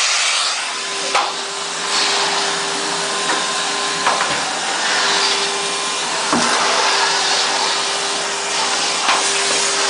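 Vacuum cleaner running steadily, its motor giving an even hum under a loud rushing of air, with a few short knocks.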